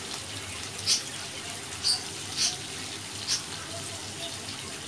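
Chicken livers sizzling steadily in oil and ghee in a non-stick frying pan, stirred with a spatula that makes about four short, sharp scrapes roughly a second apart.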